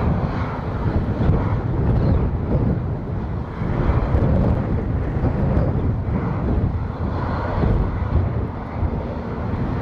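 Embraer KC-390 transport's twin V2500 turbofan engines rumbling as it comes in to land, mixed with strong wind gusting on the microphone. The low rumble swells and dips unevenly.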